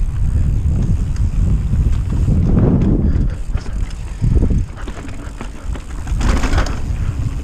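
Mountain bike rolling down a loose dirt trail: tyre and trail rumble mixed with wind buffeting the microphone, a short thump a little past four seconds in, and a brief hissing scrape about six seconds in.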